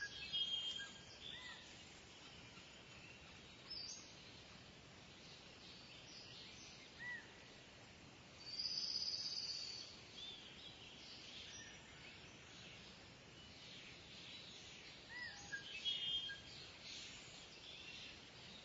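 Birds calling over a steady faint outdoor background: scattered short chirps and brief whistled notes, with one longer buzzy call about nine seconds in.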